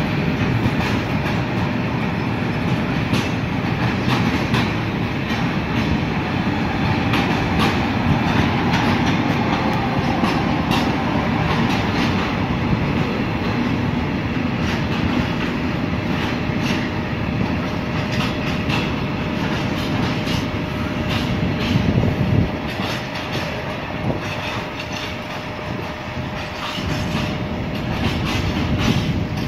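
A freight train of container flat wagons rolling steadily past, its wheels clicking over the rail joints.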